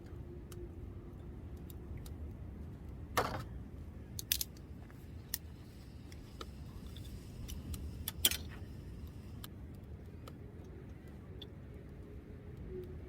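Scattered sharp clicks and clinks over a low steady rumble, with a few louder knocks about three, four and eight seconds in.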